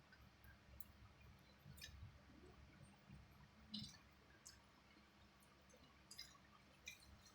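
Faint, scattered mouth clicks and smacks of someone eating adobo chicken feet, over a low room hum.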